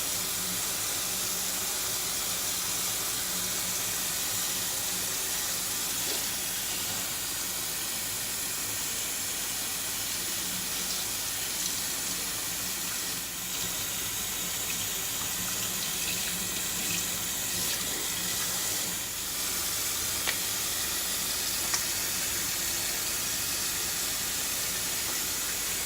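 Tap water running steadily into a sink while bleached hair is rinsed under the stream, with a few faint knocks.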